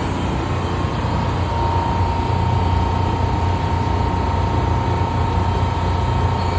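Mori Seiki NH4000DCG horizontal machining center running: a steady low hum with a thin, even whine that grows a little stronger about a second and a half in.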